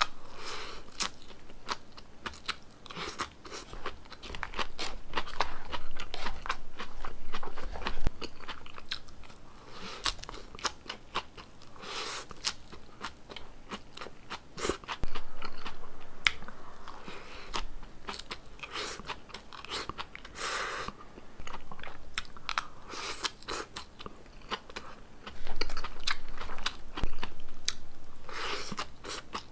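Close-miked chewing of fresh lettuce and salad greens from a salmon poke bowl: steady crisp crunching, with louder crunchy bites every few seconds.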